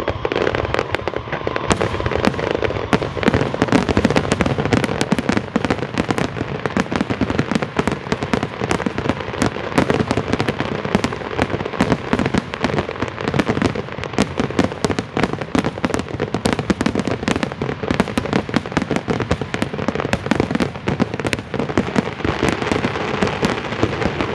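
Fireworks show in its closing barrage: a dense, continuous run of bangs and crackles, many a second, with no pause.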